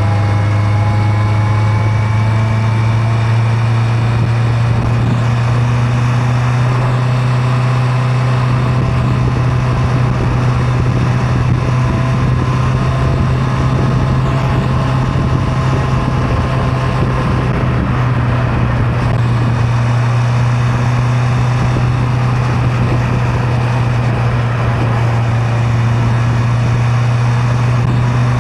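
Honda CB650R's inline-four engine running at a steady cruise, its note rising slightly over the first few seconds and then holding level.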